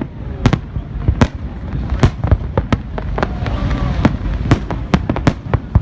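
Fireworks going off: sharp bangs, about two a second at irregular intervals, over a steady low rumble.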